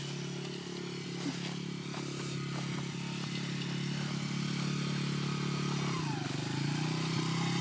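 Honda CRF80F dirt bike's small four-stroke single-cylinder engine running steadily and growing gradually louder. About six seconds in its pitch dips briefly and then comes back up.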